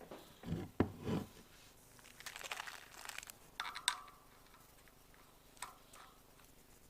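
Metal clicks, knocks and clinks of a bicycle wheel being fitted into the frame and its axle nut threaded on and tightened. A quick run of ticks comes about two seconds in, and a metallic clink with a short ring near four seconds.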